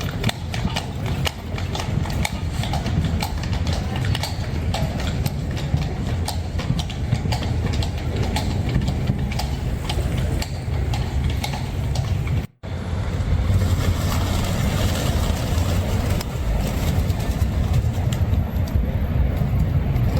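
Horse hooves clip-clopping at a walk, a horse-drawn carriage passing. About twelve seconds in, the sound cuts out for an instant, then steady street noise takes over with fewer hoof knocks.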